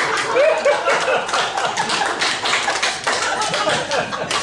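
Audience applauding, with some laughter early on.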